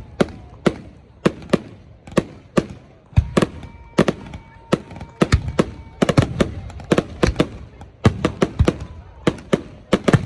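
Fireworks going off: a rapid, irregular string of sharp bangs, two or three a second, with a faint steady whistle-like tone under them in the middle.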